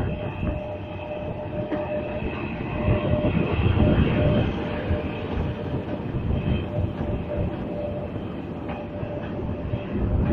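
Freight train hauled by a 3ES5K 'Ermak' electric locomotive rolling on the rails: a continuous rumble of wheels on track, with a steady whine held throughout.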